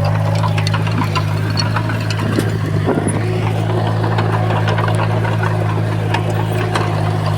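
Komatsu bulldozer's diesel engine running steadily, with scattered clicks and clanks throughout.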